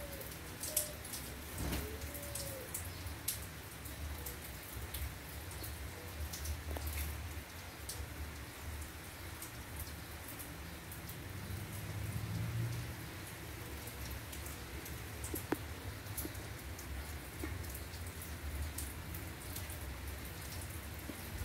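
Rain starting to fall: scattered raindrops ticking on hard surfaces, irregular and sharp, over a low steady rumble.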